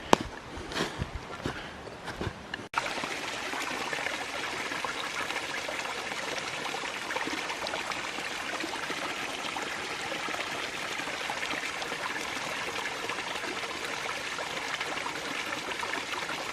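Steady rushing and splashing of a small creek waterfall or cascade, about four feet high. It begins abruptly a few seconds in, after a few light knocks.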